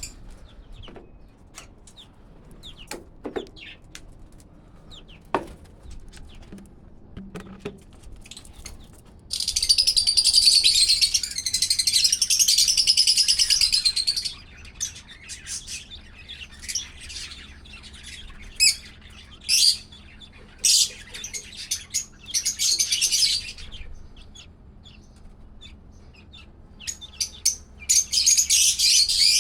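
Small pet parrots chirping and chattering: scattered short calls and clicks at first, then long bouts of continuous high chatter, the loudest lasting about five seconds a third of the way in, with more near the end.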